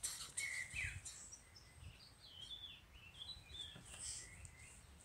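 Faint chirping of small songbirds, short scattered calls.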